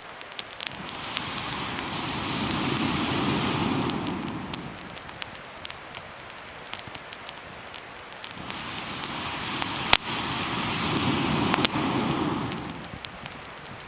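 Wood fire crackling with scattered sharp pops, and two long rushes of noise that swell and fade, about four seconds each, one near the start and one in the second half.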